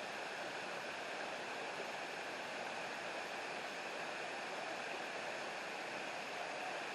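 Steady rush of flowing water from a creek and waterfall.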